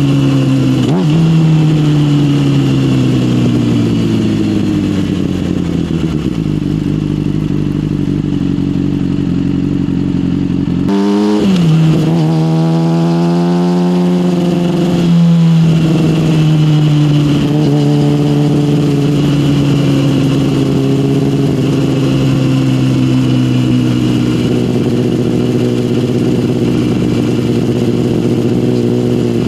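Yamaha motorcycle with an SC Project aftermarket exhaust, engine note falling slowly as the bike rolls off, then rising sharply as the throttle is opened about eleven seconds in, with a gear change a few seconds later before settling into steady cruising.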